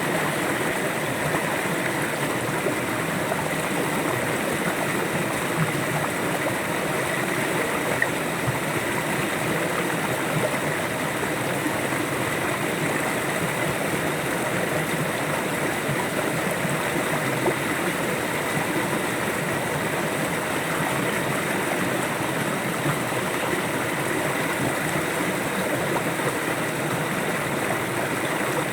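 River water flowing steadily over stones, an even rushing and babbling.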